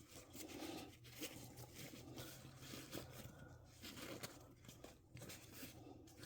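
Near silence with faint rustling and a few light clicks: a plastic fashion doll and its fabric outfit being handled.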